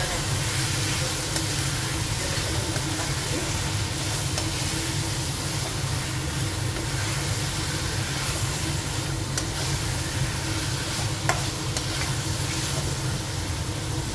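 Chicken pieces in masala sizzling as they fry in oil in a pan, stirred with a metal spatula, with a few faint clicks of the spatula against the pan. A steady low hum runs underneath.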